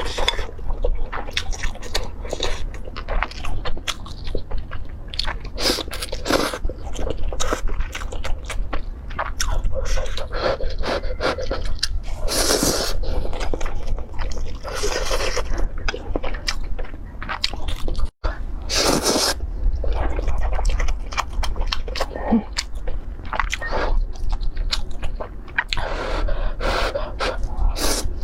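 Close-miked eating: repeated bites, crunching and chewing, with a steady low hum underneath; the sound cuts out for an instant about two-thirds of the way through.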